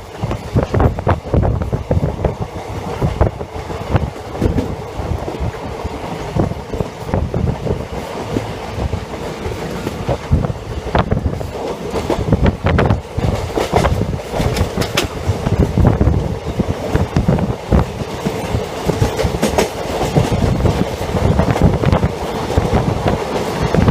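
Passenger train coach running along the track, a steady rumble with wheels clattering in irregular knocks over rail joints.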